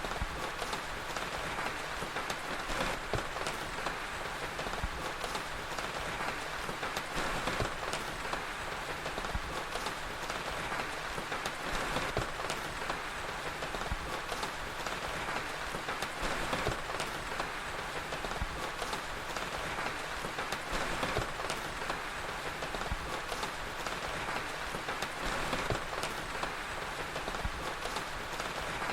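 Steady rain with scattered small crackles and pops from a fire.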